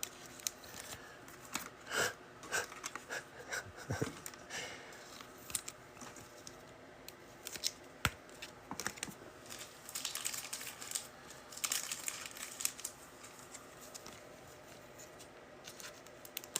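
Trading card packs being handled and opened: wrapper crinkling and tearing, with short clicks and rustles of cards being shuffled through.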